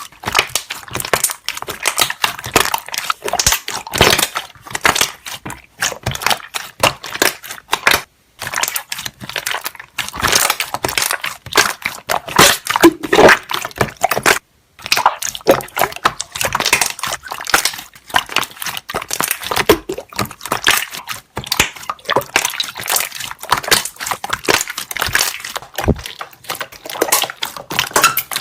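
Slime being squeezed and kneaded, trapped air bubbles popping in fast, crackling runs of small clicks and pops, with two brief pauses about eight and fourteen seconds in.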